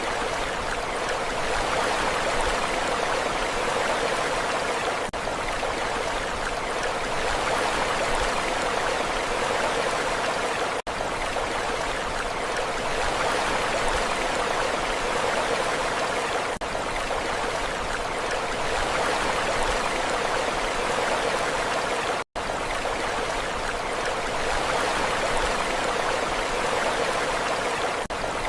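Steady rushing of water, an even stream-like hiss with no rise and fall of breaking waves. It cuts out for an instant twice, once near the middle and once about three-quarters through.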